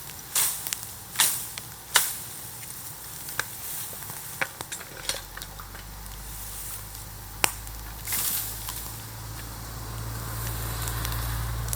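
Burning bamboo bonfire crackling, with sharp irregular pops and snaps over a light hiss; a low steady rumble comes in about halfway through.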